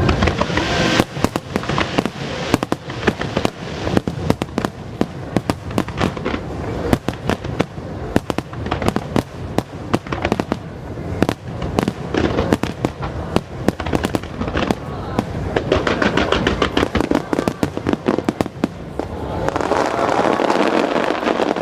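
Aerial fireworks shells bursting in rapid succession, a continuous run of sharp bangs and crackles; near the end the bursts run together into a denser wash of sound.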